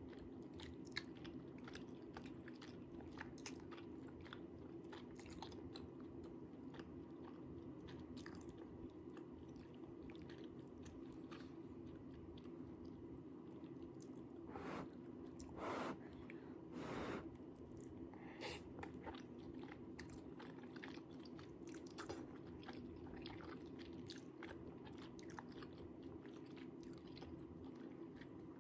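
Close-up chewing and biting of spicy tteokbokki rice cakes, with many small wet mouth clicks over a steady low hum and a few louder bursts about halfway through.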